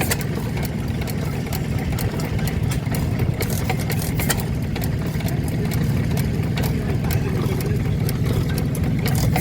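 Vintage stationary engines running at a show: a steady low drone with many sharp, irregular clicks and knocks on top.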